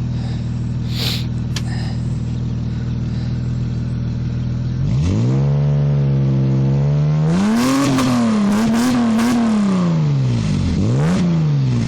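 1994 Dodge Intrepid's V6 running through a custom catback exhaust. It idles steadily, is revved up about five seconds in and held, then revved higher and held with wavering revs. It drops back, gets one quick blip near the end and settles to idle.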